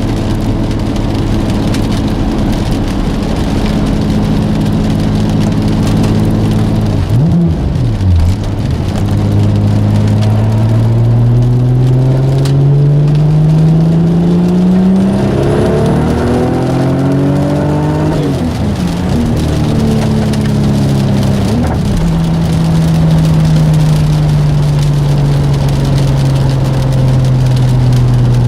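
Single-turbo Audi S4 engine running under way: a steady note at first, then, after a quick dip about seven seconds in, the pitch climbs steadily through a pull, drops sharply a couple of times, and settles back to a steady, slowly falling note for the last third.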